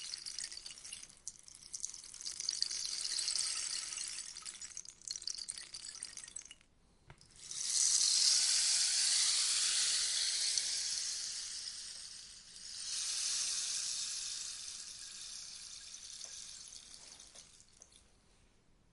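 Rainstick tipped over again and again, its fill trickling down inside with a rain-like hiss. Each pour swells and slowly fades; after a short lull about six and a half seconds in comes the loudest pour, and another follows about halfway through.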